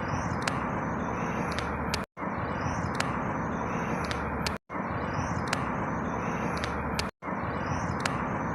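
Outdoor ambience: a steady rushing noise with faint high bird chirps, a short recording looped about every two and a half seconds, cutting out to silence for a split second between repeats, three times.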